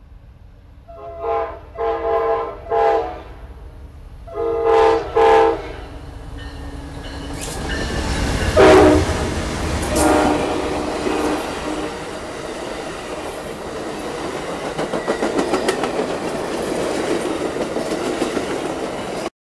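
Amtrak passenger train passing: the diesel locomotive's horn sounds five blasts as it approaches, then more horn as the locomotive goes by loudly. The passenger cars follow, their wheels clattering rhythmically over the rail joints, until the sound cuts off suddenly near the end.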